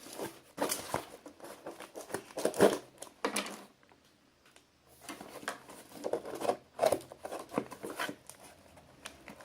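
Irregular rustling, scraping and tearing of a shipping package being opened by hand, with a short quiet pause about four seconds in.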